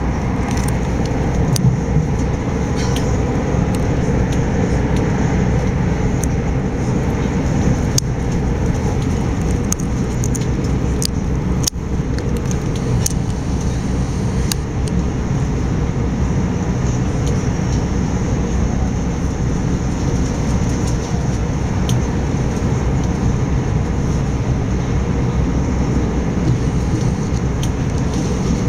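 A Bombardier Electrostar electric multiple unit running at speed, heard from inside the carriage: a steady low rumble of wheels on rail, with a few short sharp clicks.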